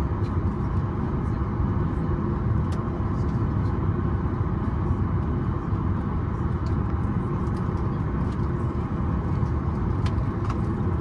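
Steady low rumble inside the cabin of a Boeing 737 MAX 8 on the ground, its CFM LEAP-1B engines running at low power, with a few faint clicks.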